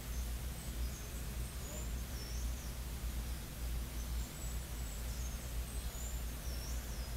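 Faint, thin, high-pitched bird calls that dip and rise, in two short runs, over a steady low hum.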